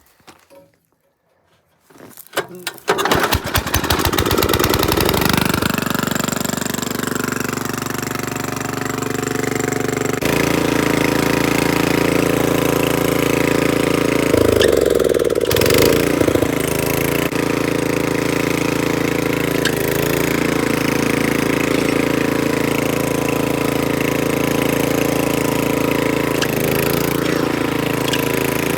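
Troy-Bilt Horse rear-tine rototiller's engine starting: a quick run of firing clicks about two seconds in as it catches, then it settles into a steady run. About ten seconds in it speeds up, dips and recovers briefly a few seconds later, then runs steadily as it warms up.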